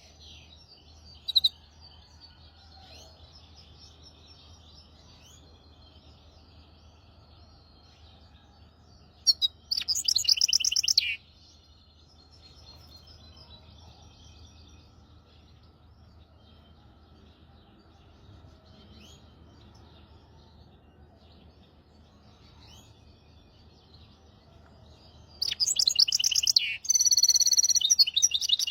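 Hybrid finch singing in loud, fast trilled phrases: a short note about a second in, a burst of rapid trills about nine seconds in, and a longer run of trills and chirps near the end, with faint chirping in the pauses between.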